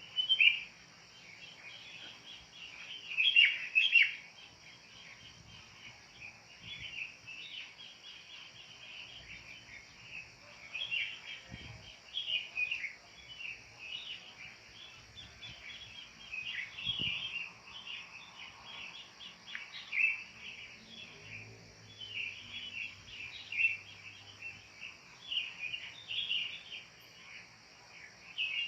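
Wild birds calling over and over in quick clusters of short, sharp notes, loudest about three seconds in, over a steady high insect drone.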